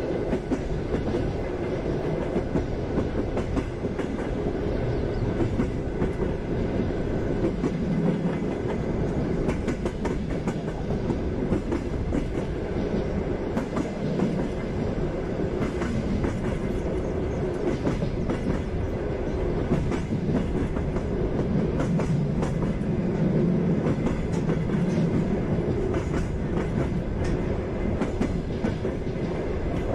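Passenger train in motion: the steady rumble of the carriage with the clickety-clack of its wheels over the rail joints.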